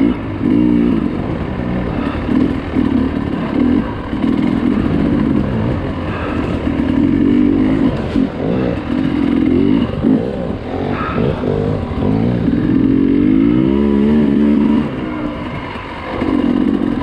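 Dirt bike engine revving hard and dropping back again and again, with a long rising rev near the end.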